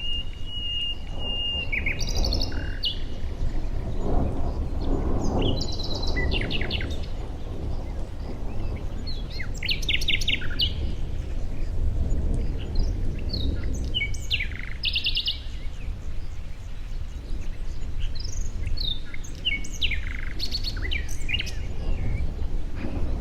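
Wild birds chirping and trilling: short, quick series of high notes every second or two, with one held whistled note in the first three seconds, over a steady low rumble.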